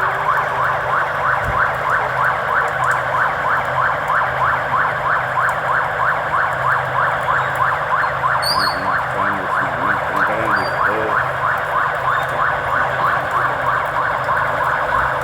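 A vehicle siren on a fast yelp, repeating rapid rising sweeps about three or four times a second, steady and loud.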